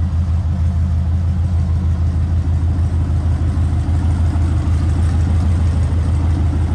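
LS1 V8 engine of a sandrail idling steadily: a deep, even low rumble.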